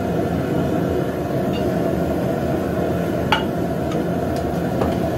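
Steady low rushing noise of a running forge, with one sharp clink a little past three seconds in.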